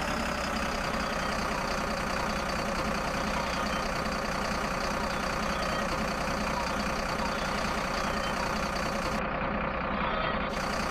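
A steady engine running sound, like a tractor engine idling, holding one even pitch and level throughout.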